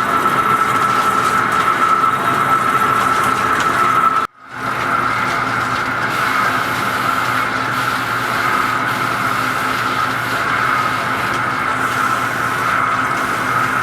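Lathe turning a large pot-bearing part: steady machining noise with a held high-pitched tone over a low hum. About four seconds in it cuts out abruptly, then fades back in unchanged.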